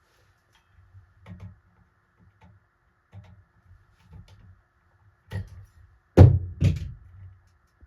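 Scattered light clicks and low knocks of hands and tools working on fan parts, with two loud sharp knocks about half a second apart just after six seconds in.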